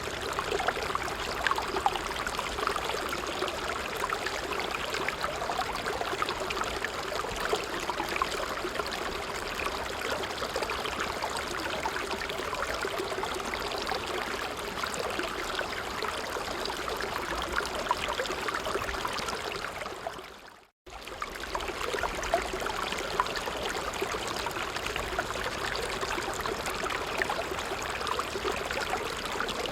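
Creek water running and babbling steadily over stones. A little after two-thirds of the way in it fades away to silence for a moment, then comes straight back.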